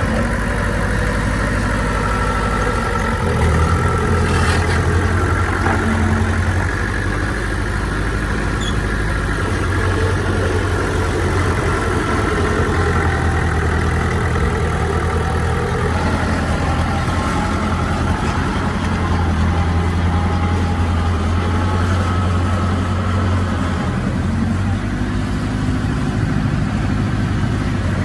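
Heavy diesel engine of earthmoving machinery running steadily, a continuous low drone whose pitch rises and falls slightly.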